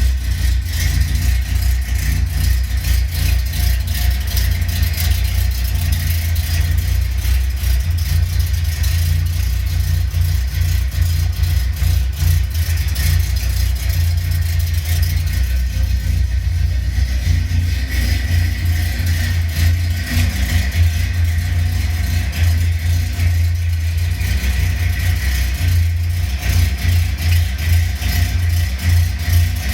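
Datsun 240Z's 2.4-litre straight-six engine running steadily at an even speed.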